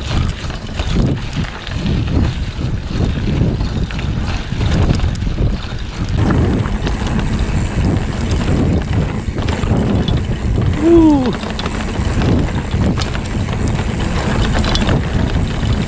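Wind buffeting the microphone over the rumble of a mountain bike riding a dirt trail, with a short falling cry about two-thirds of the way through.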